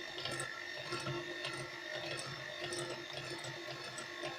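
Electric hand mixer running steadily, its beaters mixing oil into whipped eggs and sugar in a bowl, with a light ticking from the beaters.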